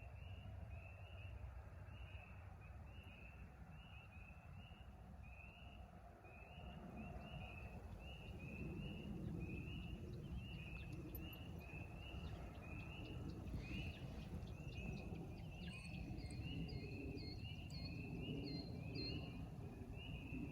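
Night animal calls: a regular series of short, high peeps, about two a second, with a second, higher-pitched series of peeps joining about three-quarters of the way in, over a low background rumble.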